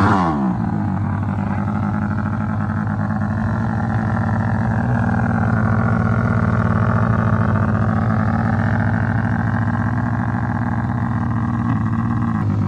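Drag-racing motorcycle engines at a drag strip: a high rev falls away at the start, then the engines idle steadily, with a fainter engine rising and falling in pitch through the middle.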